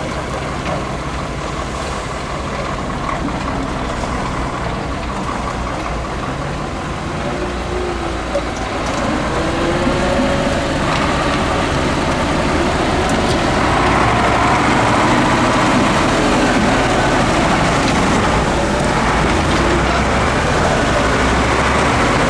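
Off-road 6x6 Ural truck engine working under load. It runs steadily at first, then grows louder about halfway through, its pitch rising and falling as it is revved.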